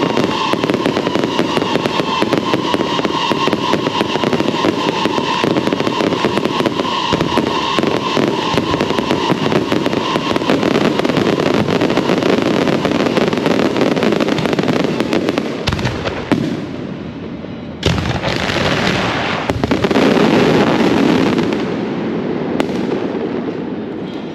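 Electrically fired firecrackers and fireworks going off in a dense, continuous barrage of rapid cracks, with a whistling tone fading away over the first several seconds. The crackle drops off about two-thirds through, a sharp bang sets off a second dense burst, and it thins out near the end.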